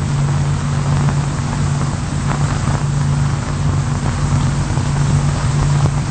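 Grit-blasting chamber running, firing chilled iron grit at structural steel: a steady hiss over a low machine hum.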